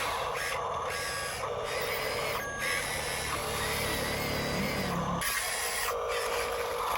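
Electric motor and gearbox of an RC dump truck whirring and whining steadily, the whine shifting a little in pitch as it drives. The lower part of the sound drops away about five seconds in.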